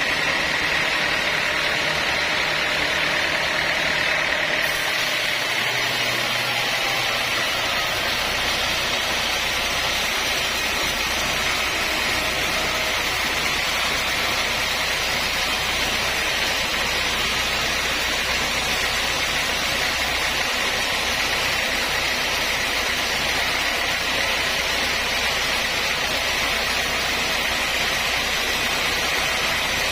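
Sawmill saw running steadily with a dense, even machine noise. About five seconds in, a higher hiss joins it and then carries on unchanged.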